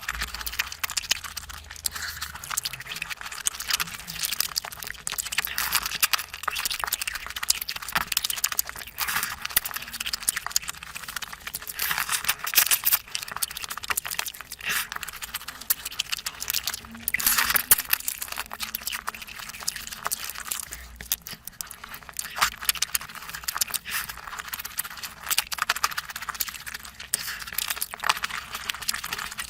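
Close-miked eating sounds: a steady stream of wet chewing, lip-smacking and mouth clicks.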